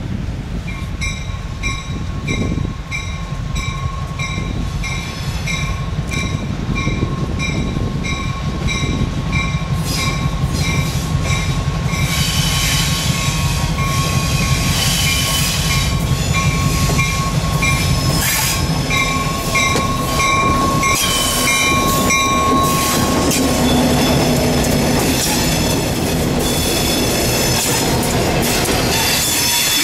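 Freight train with EMD road-switcher diesel locomotives passing, the engines rumbling under a rapid ringing about twice a second that stops about two-thirds of the way through. Wheels clatter and squeal on the rails, growing in the second half.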